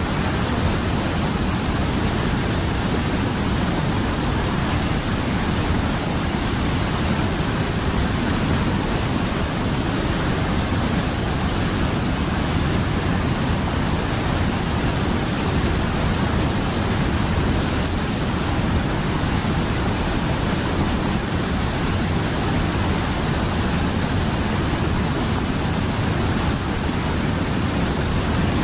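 Mountain river flowing steadily: a continuous, even rush of water.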